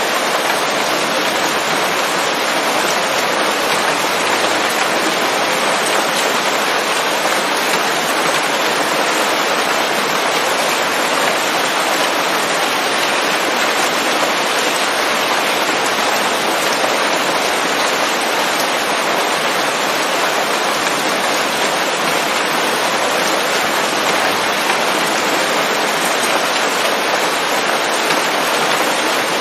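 Steady rain falling on leaves in a forest, a dense even hiss of many drops with faint individual patters.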